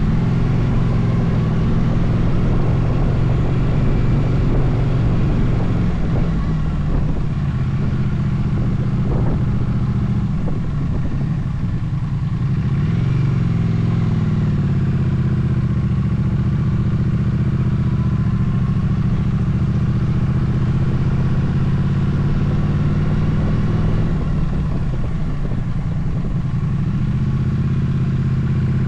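Motorcycle engine running steadily while under way, its pitch dipping and rising again about halfway through and once more near the end as the rider changes speed.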